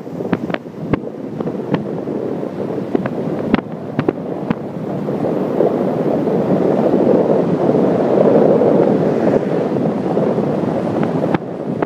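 Wind rushing over a phone's microphone: a steady rumbling rush with scattered crackling clicks, growing louder toward the middle and easing off near the end.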